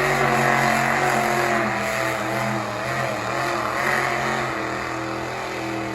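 Loud high-performance engine of a pulling truck running at high, nearly steady revs, its pitch wavering slightly.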